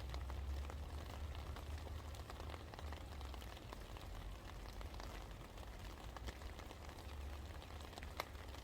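Steady rain falling, with many individual drops ticking on a surface and one sharper drop about eight seconds in, over a low steady rumble.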